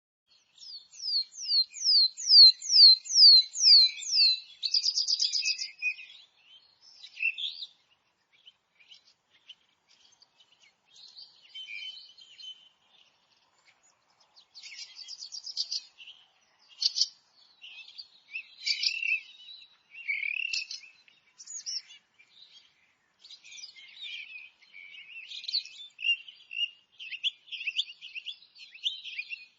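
Forest songbirds singing and chirping. It opens with a loud series of about ten quick downward-sliding whistled notes ending in a fast trill, then several birds give scattered, quieter chirps and song phrases.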